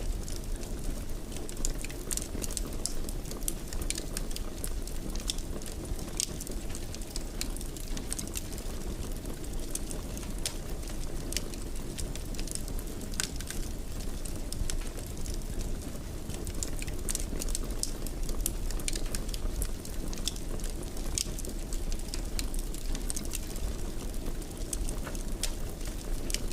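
Wood fire crackling in a fireplace: a steady low rumble of the burning fire with many irregular small pops and snaps.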